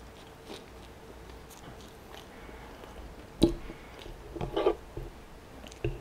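Quiet chewing of a mouthful of fried chicken. There is a sharp click about three and a half seconds in, a brief mouth sound a second later, and another click just before the end.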